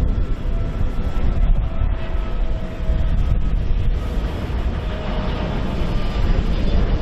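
Boeing 777-300ER's twin GE90-115B turbofans at approach thrust: a loud, steady jet rumble of the airliner on final approach, with faint whining tones that slowly drift lower in pitch.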